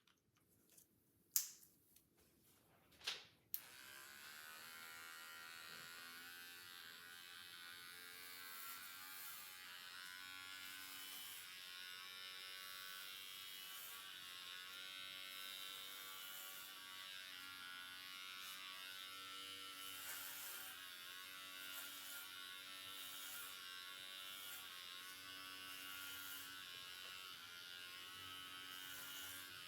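Two sharp clicks, then electric hair clippers start buzzing steadily, running as they cut hair.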